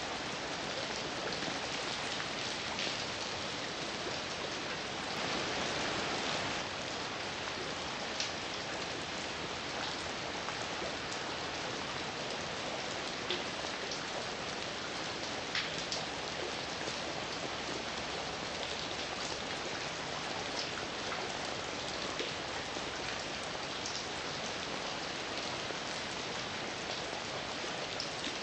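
Heavy rain falling steadily, with scattered sharper drops ticking through the hiss and a brief swell in the downpour about five seconds in.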